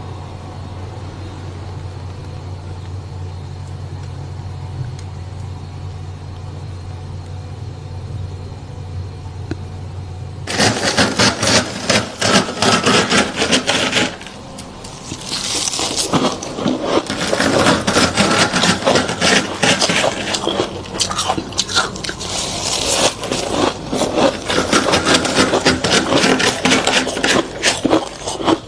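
A steady low hum for about ten seconds, then loud, dense, crisp crunching and scraping of thick freezer frost that goes on to the end with one brief lull.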